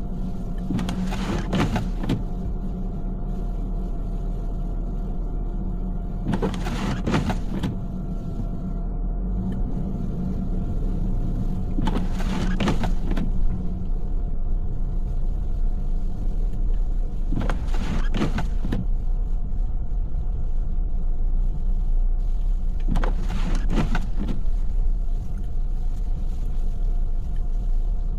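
Car cabin while driving: steady road and engine rumble with a constant hum. Windshield wipers on an intermittent setting sweep across the snowy glass with a short two-part swish about every five and a half seconds.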